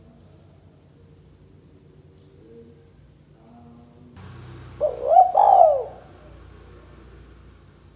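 Spotted dove cooing: faint coos for the first few seconds, then one loud close call about five seconds in, lasting about a second, with notes that arch up and down.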